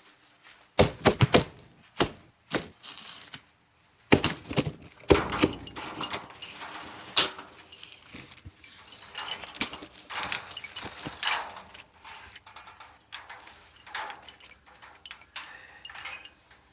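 Irregular knocks and thumps in quick clusters, the loudest in the first seven seconds, followed by softer rustling noise.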